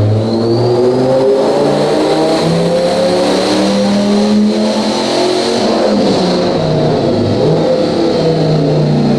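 Turbocharged 8.3-litre Viper V10 truck engine running hard on a chassis dyno, its pitch rising and falling. A thin high turbo whine rises in about half a second in, holds, and fades near the end.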